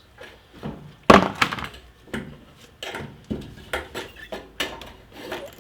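A string of hard clunks and knocks as the removed fuel pump module and its fuel tank are handled over a drain bucket, the loudest about a second in.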